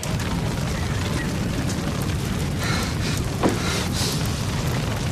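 A large fire burning: a steady, deep rumble with a few brief crackles and pops partway through.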